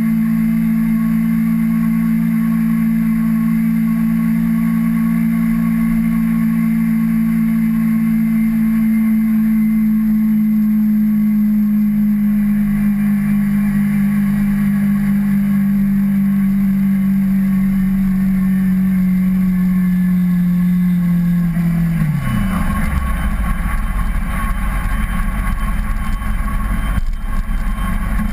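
Kawasaki Ninja 250R's parallel-twin engine running at steady revs, its note easing down slightly. About 22 seconds in the revs drop sharply and the engine note falls to a low, rough rumble.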